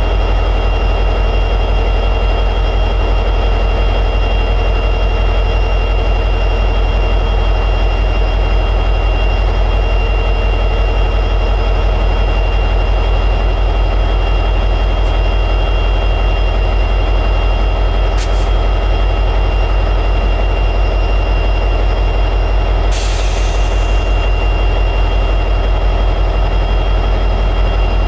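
EMD 710G3B two-stroke diesel prime mover of an SD60E locomotive running steadily at high idle. A brief hiss comes in late on.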